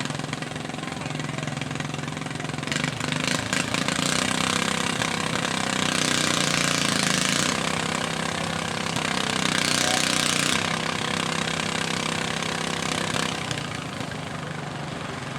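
Engine running steadily. A loud hiss swells in about three seconds in and dies away near the end.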